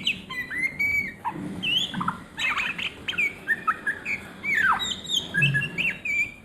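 Oriental magpie-robin (kacer) singing a fast, varied string of short whistled notes with pitch glides sweeping up and down.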